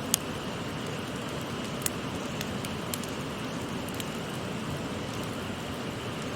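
Wood campfire crackling, with a few sharp pops (the loudest just after the start), over the steady rush of a shallow river.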